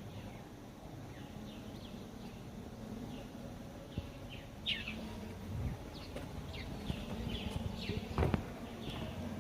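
Birds chirping: many short, quick, falling calls, a few each second, over a low background rumble. Two dull thumps come in the second half.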